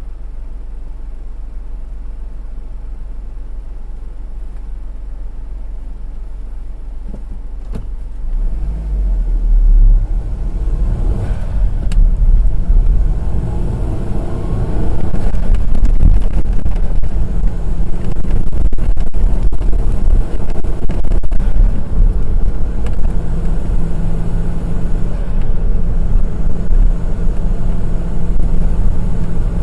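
A car driving on a road, its engine and tyre noise running as a low steady rumble. About eight seconds in it grows clearly louder as the car picks up speed, and it stays loud from then on.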